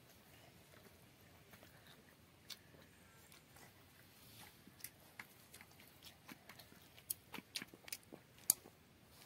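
A child eating a piece of omelet by hand: faint chewing and biting with scattered small clicks, coming more often and louder in the last few seconds.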